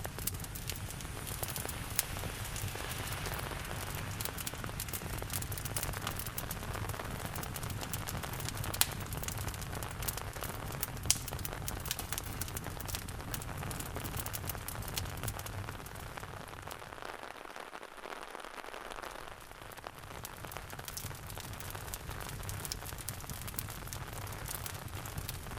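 Steady rain hiss mixed with a wood fire crackling in a fireplace, with frequent sharp pops scattered throughout. A low rumble under the rain fades out for a few seconds past the middle, then comes back.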